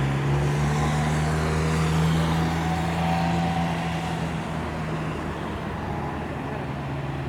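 Steady droning hum of a passing engine-powered vehicle, loudest about two seconds in and then slowly fading.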